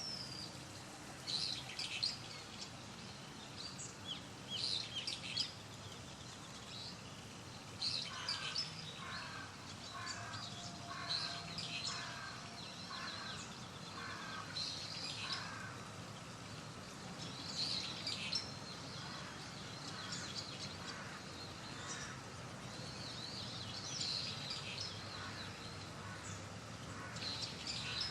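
Wild birds chirping and calling over a steady outdoor background hiss, with short high chirps coming every few seconds. For several seconds in the middle a lower note repeats evenly, roughly every two-thirds of a second.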